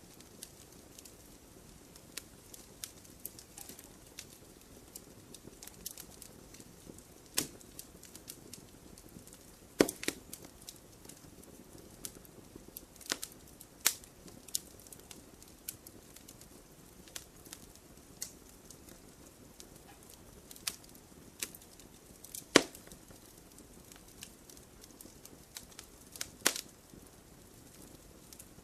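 Wood campfire crackling: irregular sharp pops and snaps over a faint steady hiss, with a few louder pops standing out.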